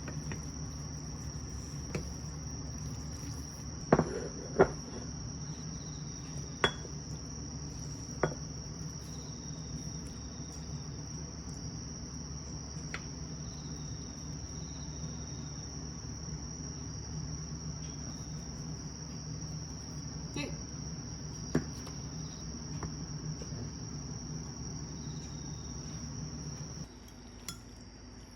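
Steady high-pitched chorus of crickets and other summer insects, with a few sharp clinks of cutlery against dishes, several in the first eight seconds and one about two-thirds of the way through. A low steady hum underneath drops away near the end.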